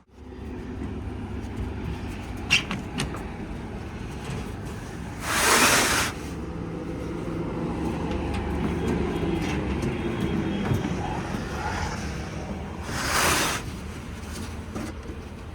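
A motor vehicle's engine running steadily with a low hum. A couple of sharp knocks come early on, and two short, loud hissing rushes come about five and thirteen seconds in.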